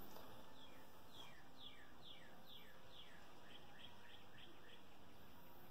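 A bird singing faintly: a run of about a dozen short whistled notes, each falling in pitch, coming quicker toward the end.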